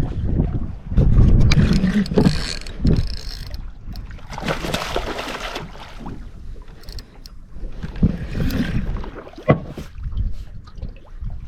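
Gusty wind buffeting the microphone, a low uneven rumble with irregular bursts of rushing noise.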